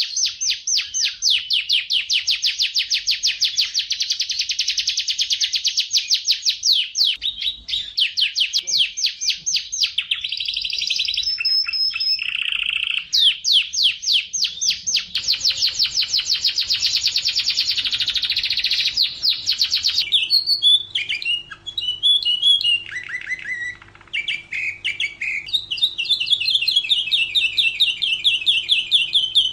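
Domestic canary singing: long, very fast rolling trills, then about two-thirds through a switch to a more varied run of chirps and short trills. A faint steady hum sits underneath from that point on.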